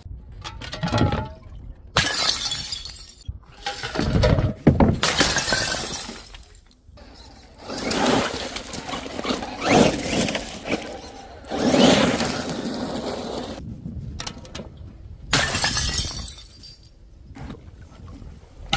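Glass bottles shattering one after another: about six crashes, each trailing off in a spill of breaking glass.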